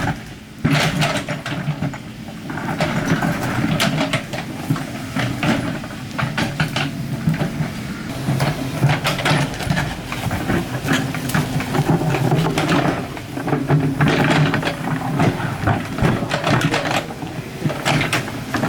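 Excavator's diesel engine running steadily, with frequent knocks and scrapes throughout.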